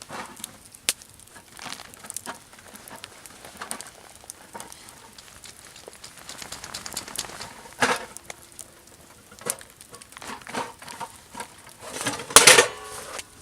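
Scattered crackles, rustles and light knocks, like camp gear being handled by a campfire. Two louder knocks, one about eight seconds in and a stronger one near the end, each ring briefly like metal cookware.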